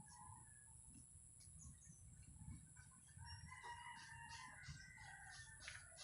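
A rooster crowing faintly, one long crow starting about three seconds in.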